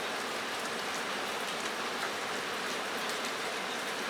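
Steady rain drumming on a metal roof: a dense, even hiss scattered with faint ticks of drops.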